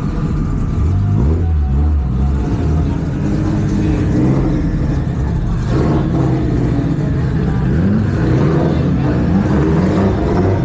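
Car engine accelerating hard, its pitch climbing steadily, dropping about halfway through and climbing again, like a run up through the gears.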